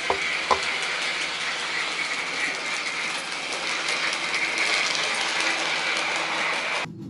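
Lionel O gauge model locomotive running on Fastrack track: steady electric-motor hum with wheels clicking over the rail joints, and two sharp clicks about half a second in. The sound cuts off sharply near the end.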